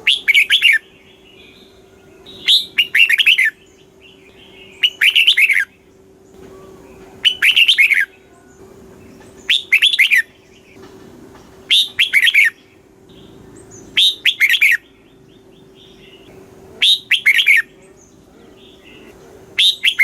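Red-whiskered bulbul singing short, bubbly song phrases, each about a second long, repeated about every two and a half seconds, nine times. A faint steady hum lies underneath.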